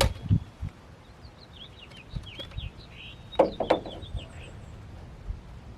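A small bird chirping a quick run of short, sliding notes, over a few sharp knocks, the loudest a pair about three and a half seconds in.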